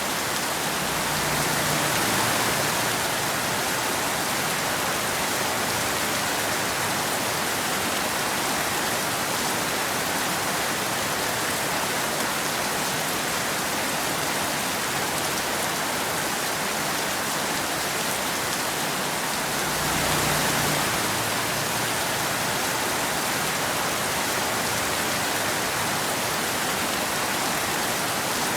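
Steady rain falling in an even hiss, swelling briefly twice: about two seconds in, and again about twenty seconds in.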